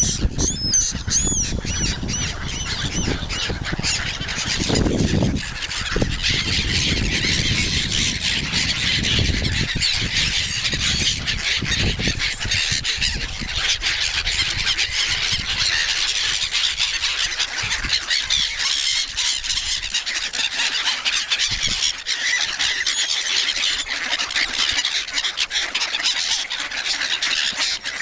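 A flock of hungry swans and ducks calling over one another, a dense high squealing chatter with honks, as they clamour for food. A low rumble runs under it for the first dozen seconds or so.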